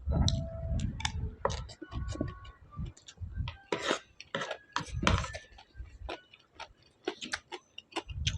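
A person eating close to the microphone: irregular crunching and chewing with sharp mouth clicks and smacks.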